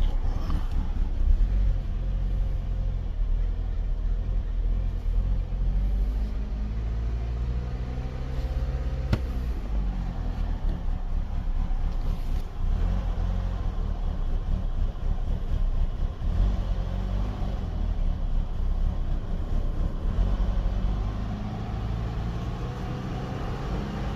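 Chevy Cobalt SS four-cylinder replacement engine running steadily, now running a whole lot better after the misfire troubleshooting. A single sharp click is heard about nine seconds in.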